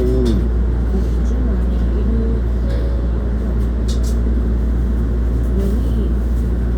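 Hankyu 1300 series electric commuter train running, heard from inside the car: a steady low rumble with a few faint clicks, and voices now and then.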